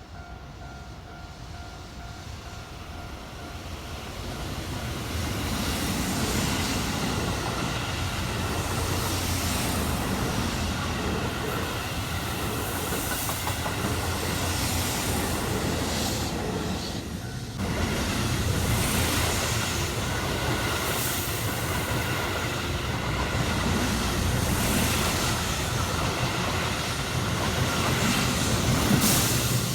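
A Keihan electric train passing at track side, its wheels clicking over the rail joints. The noise builds from about four seconds in and stays loud, with a brief dip about halfway through.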